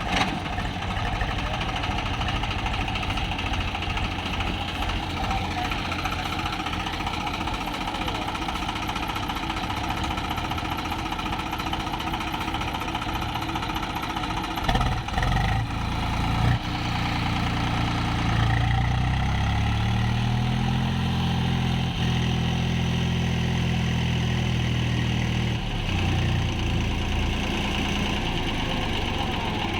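Swaraj tractor's diesel engine running steadily while hauling a trolley fully loaded with sand. About halfway through, the revs climb and hold higher for several seconds, then drop back a few seconds before the end.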